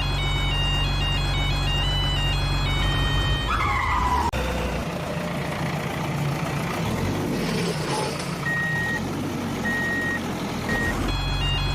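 Truck engine rumble under a short, high electronic tune. The rumble stops about four seconds in with a falling whistle, and near the end come three slow reversing beeps.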